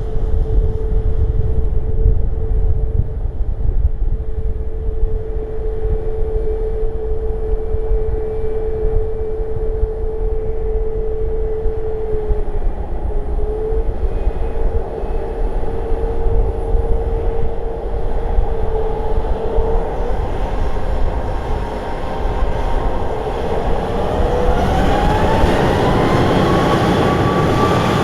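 Jet aircraft engines whining at a steady pitch, then rising in pitch and growing louder over the last six seconds or so, with strong wind rumbling on the microphone.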